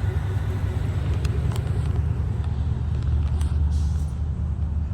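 Steady low rumble of an idling vehicle engine, with a few faint light clicks.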